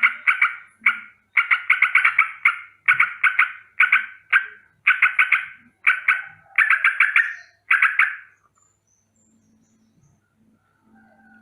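Sooty-headed bulbul giving a rapid, rolling alarm chatter in repeated bursts of harsh notes, stopping about eight and a half seconds in.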